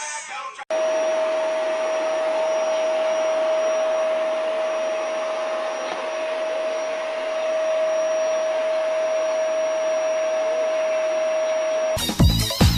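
A household appliance's electric motor running steadily: an even rushing of air with one constant whine. It cuts in abruptly just under a second in and stops near the end.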